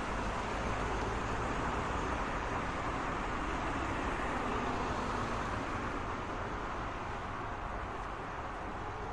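Steady road traffic noise: a continuous wash of tyre and engine sound from passing cars with a low rumble, easing off slightly near the end.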